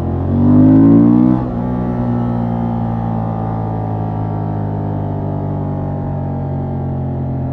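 Honda XL750 Transalp's 755 cc parallel-twin engine through its stock exhaust, revving up hard under throttle for about a second and a half, the loudest part. The revs then drop sharply and the engine runs on steadily, its pitch easing slightly.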